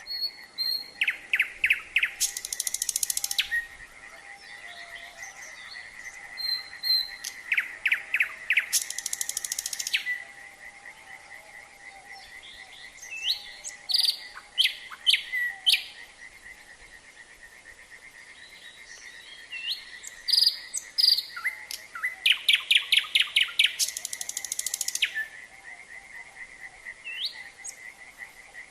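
A nightingale singing four phrases of rapid repeated notes and high buzzy trills, with pauses between them. A steady high trill from frogs runs underneath throughout.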